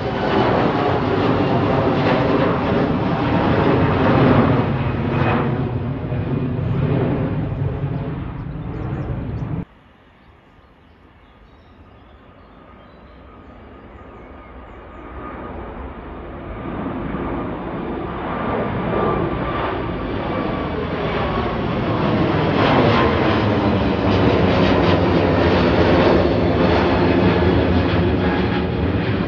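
Jet airliner engines at departure power as an aircraft passes, a loud noise with slowly sweeping tones. It cuts off suddenly about a third of the way in, then another jet's engine noise builds up gradually and stays loud.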